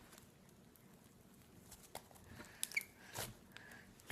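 Soft butter slime being handled and squeezed by hand: faint sticky clicks and small pops, coming from about halfway in.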